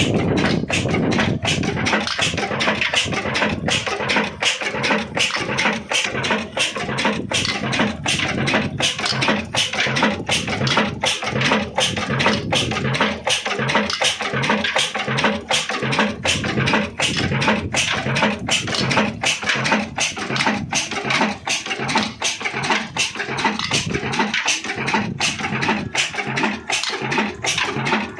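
Old black single-cylinder Ruston Hornsby-type diesel engine running, with a steady, even chug of about three beats a second.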